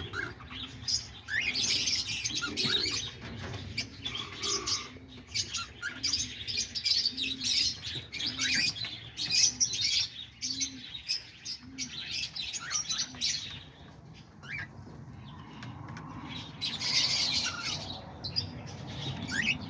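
A flock of cockatiels chirping and calling, with many short, high calls overlapping. Through the first half a low, short note repeats about once a second.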